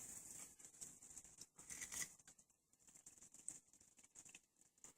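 Faint crackling of batter-dipped bread frying in deep-fryer oil, with a few small ticks.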